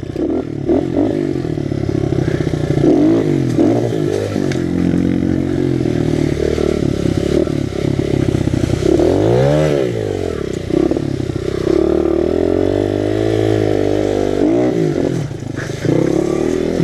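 Honda XR100 pit bike's four-stroke single-cylinder engine, fitted with a BBR 120 big bore kit, being ridden with the throttle worked on and off, so its pitch rises and falls repeatedly. A sharp rev up and back down comes about nine to ten seconds in.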